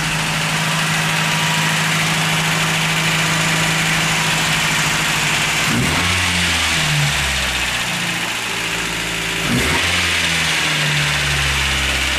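Freshly rebuilt Toyota 22RE 2.4-litre four-cylinder engine, with a new Crower cam, running on one of its first starts. It idles steadily, and its speed shifts about six seconds in and again about nine and a half seconds in.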